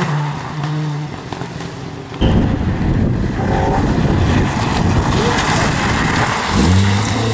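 Rally car engine running, dying away in the first second. About two seconds in a loud, rough rumble starts suddenly and carries on, and near the end an engine revs up again with rising pitch.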